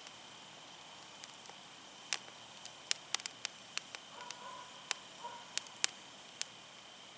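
Wood fire crackling, with irregular sharp pops over a steady hiss. Two faint short calls from an animal sound a little past the middle.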